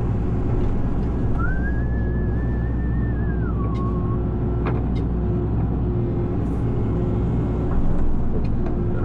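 Excavator diesel engine running steadily with its hydraulic hum. About a second and a half in, a brief whine rises, holds, then drops away, and a couple of sharp clicks come near the middle.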